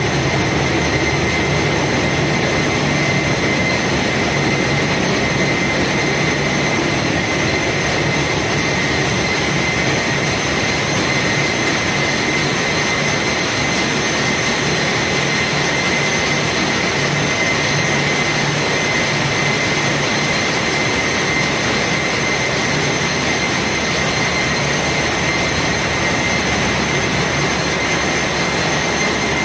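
Engine room machinery running: a loud, unchanging din with a low hum and a steady high whine over it.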